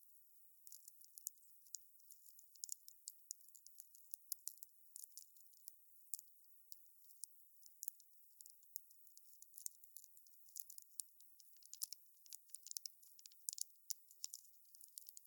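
Wood fire crackling: irregular, quiet, thin, high pops and snaps, several a second and a little denser near the end.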